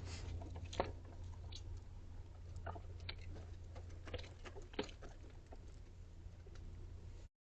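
Raccoons eating sunflower seeds from a bird feeder: scattered crunching and sharp clicks of chewing over a steady low hum. The sound cuts off abruptly shortly before the end.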